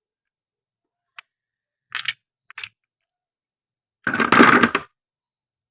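Handling and cutting of toy fruit: a light click, two short scratchy scrapes, then a louder rasping burst of a little under a second about four seconds in.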